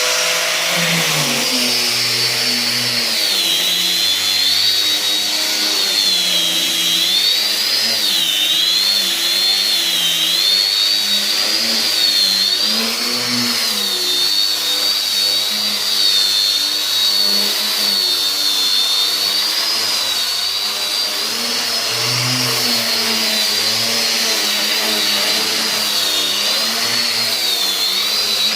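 Electric woodworking power tool running without a break, its high whine wavering up and down in pitch as the load on it changes.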